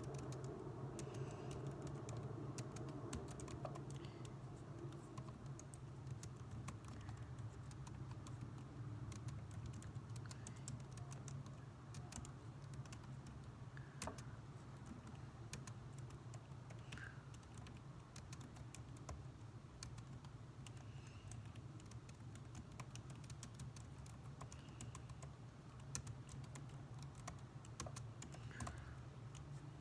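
Computer keyboard being typed on: irregular, fairly soft keystroke clicks throughout, over a steady low hum and faint noise.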